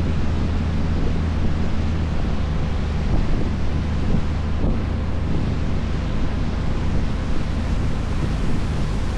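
Small tour boat under way: its engine hums steadily beneath the rush of water along the hull, with wind buffeting the microphone.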